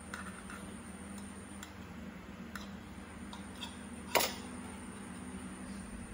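Steady low hum of an aquarium pump, with scattered light ticks and one sharp click about four seconds in.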